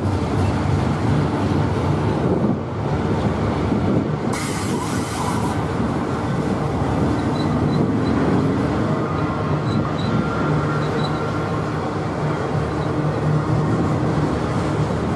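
Double-stack intermodal freight train's well cars rolling past, a steady loud rumble of steel wheels on rail, with a brief hiss about four seconds in and faint high wheel squeals in the middle.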